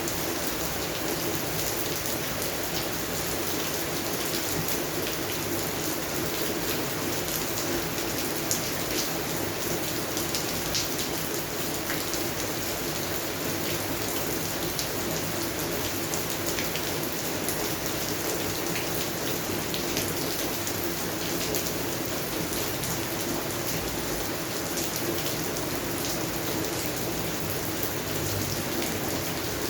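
Steady rain falling on garden plants, a constant hiss with many individual drops ticking.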